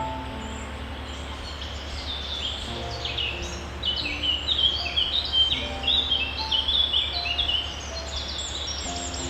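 A flock of small songbirds chirping in quick, overlapping high twitters that build to a busy burst in the middle and ease off near the end, over soft sustained background music and a steady low hum.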